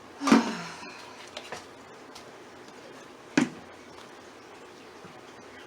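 A plant pot knocked twice, about three seconds apart, while loose potting soil is dumped out of it. The first knock trails off in a short rattle, and the second is sharp and brief.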